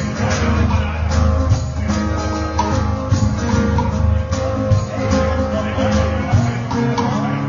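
Acoustic band playing the instrumental ending of a reggae song without vocals, led by strummed acoustic guitar in a steady rhythm.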